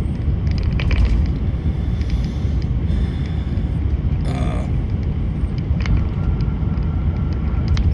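Steady low rumble of a truck running, heard from inside the cab, with a short sharper rattle about four seconds in.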